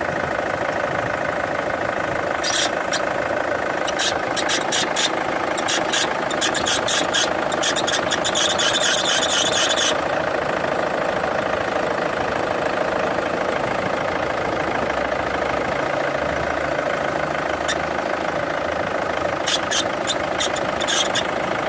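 Ford Mondeo Mk3 engine idling with the bonnet open, with a high squeak that comes as runs of rapid ticks for several seconds, then again briefly near the end. The squeal is put down to a worn power steering pump bearing.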